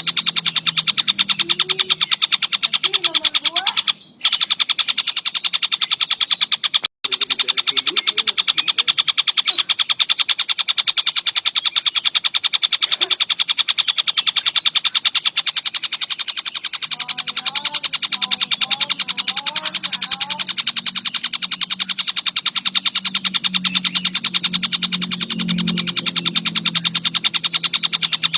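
Tengkek buto kingfisher calling in a continuous, very rapid rattling trill, with fainter chirps of other birds beneath it. The call cuts out briefly twice, about four and seven seconds in.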